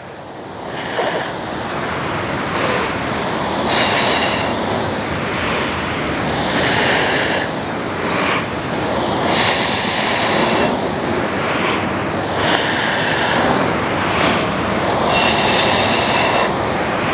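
Steady surf and wind on the microphone, with short hissing breaths about every second and a half, alternating inhale and exhale, in time with bicycle crunches.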